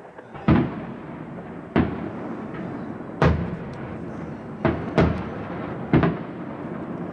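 Fireworks display: six sharp bangs, most about a second or more apart, with two close together near the middle. Each bang trails off in a long echo.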